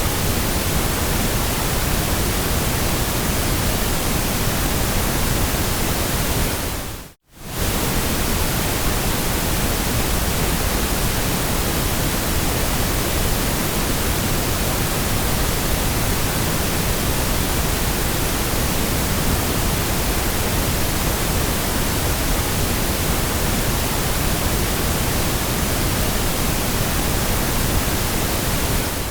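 Steady electronic white noise, an even hiss across all pitches, that fades out to silence and straight back in about a quarter of the way through.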